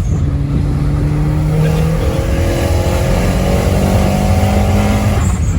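Big-turbo all-wheel-drive Audi's engine at full throttle in a hard acceleration run, heard from inside the cabin. Its pitch climbs steadily, with upshifts about two seconds in and again near the end.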